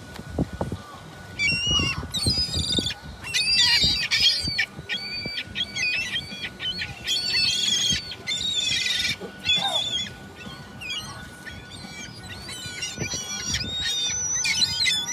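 A group of seagulls calling over one another in quick, overlapping squawks, with a faint steady tone underneath.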